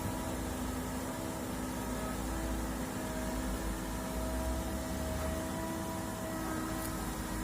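Excavator's diesel engine running steadily with a constant hum.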